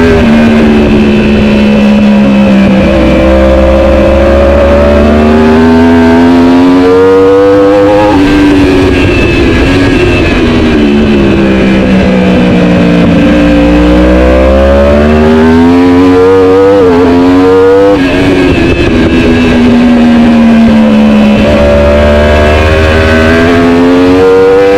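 Superbike racing motorcycle engine running hard at high revs. Its pitch climbs and cuts sharply at gear changes, and it sinks slowly where the bike slows.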